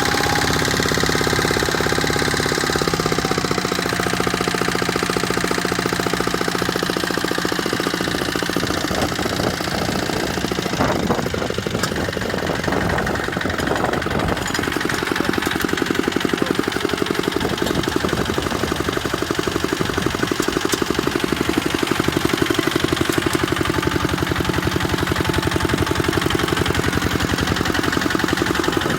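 Kubota tractor's diesel engine running steadily with a rapid, even firing pulse, with a brief burst of noise about eleven seconds in.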